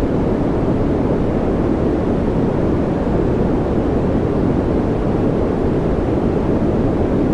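Steady white-noise track, a continuous even hiss weighted toward the low end and unchanging throughout.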